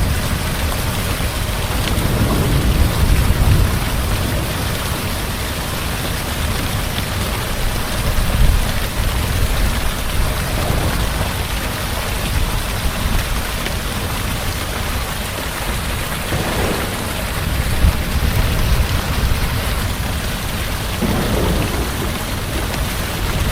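Heavy steady rainfall with low rolling thunder rumbling underneath, swelling a few times.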